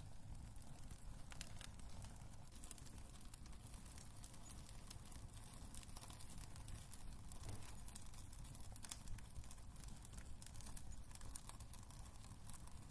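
Wood fire crackling in a fireplace: scattered small snaps and pops over a low, steady rumble of burning.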